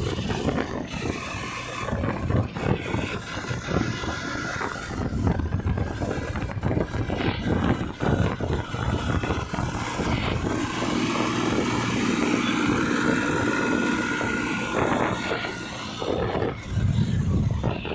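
Massey Ferguson 241 tractor's three-cylinder diesel engine running steadily.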